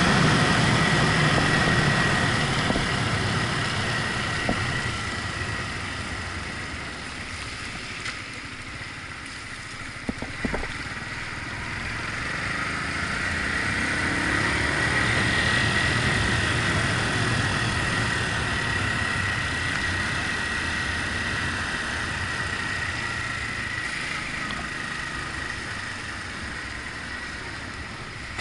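Yamaha MT-125's single-cylinder engine under way on a wet road, with steady wind and road noise. The engine note falls in the first seconds, then rises again about halfway through as the bike accelerates, and eases off toward the end.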